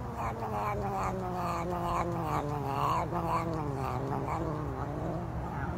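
A cat yowling: one long, wavering caterwaul lasting about five seconds, its pitch sinking slightly.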